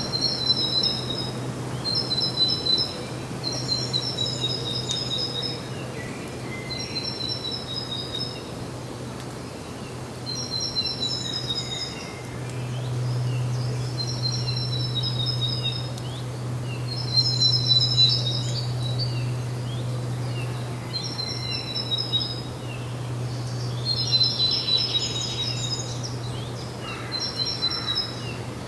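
A songbird repeating a short, high, double-noted phrase every second or two, over a steady low hum.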